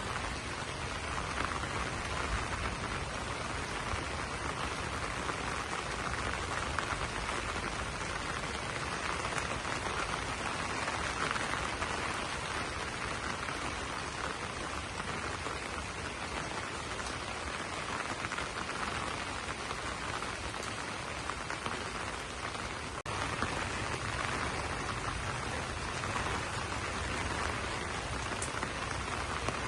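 Steady rain pattering on banana leaves, an even hiss of many drops with a low rumble beneath. A momentary break comes about two-thirds of the way through, after which the rain is slightly louder.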